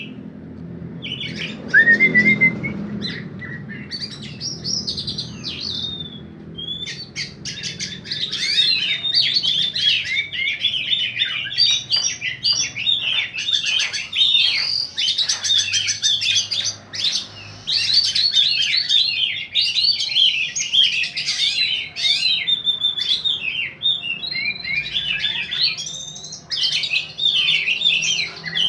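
Caged songbirds singing against each other in a rapid, continuous stream of high chirps and trills, sparser for the first several seconds and then almost unbroken.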